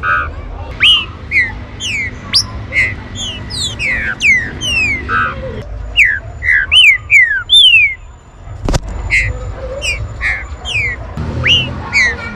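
Green-winged saltators (trinca-ferro) calling and singing: many quick, falling whistled notes, several a second and overlapping, as from more than one bird. A low steady hum runs underneath, and there is a single sharp click about nine seconds in.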